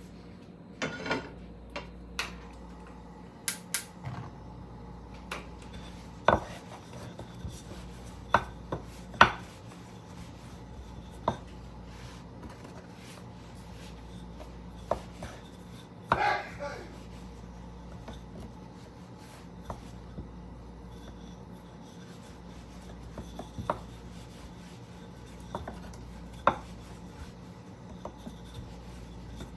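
Scattered sharp knocks and taps on a kitchen cutting board, about a dozen at uneven intervals, over a steady low hum.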